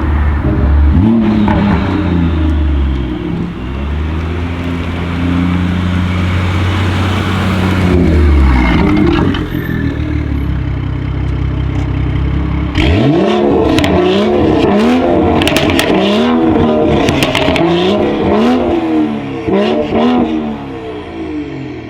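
BMW 440i's turbocharged straight-six, Stage 2 tuned with a catless downpipe and M Performance exhaust, running under load with two short breaks in its note. Over the last third it is revved in a quick series of blips, with sharp crackles and pops from the exhaust.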